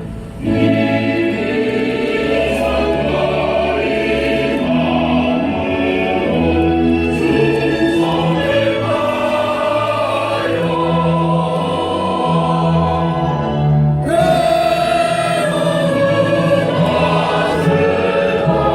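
Choral music: a choir singing slow, sustained phrases with accompaniment, a new phrase entering loudly near the end.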